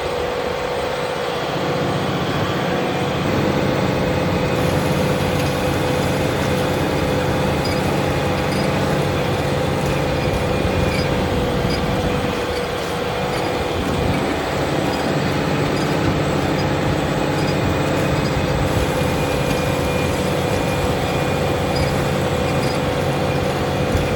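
Large Fendt tractor's diesel engine running steadily, with a steady whine over the engine note.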